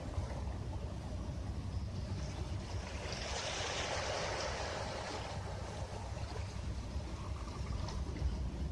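Sea waves on a beach: one wave breaks and washes up in a swelling hiss about three seconds in, then fades after a couple of seconds, over a steady low rumble of surf.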